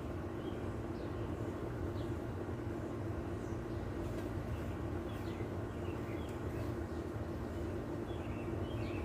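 A steady low hum, the loudest sound, runs under short high bird chirps that come and go, more often in the second half.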